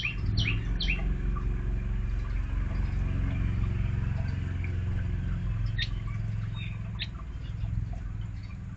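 Magpie-robin giving short, sharp downward-sweeping chirps, several in quick succession at the start and two more a little over halfway through, over a steady low rumble.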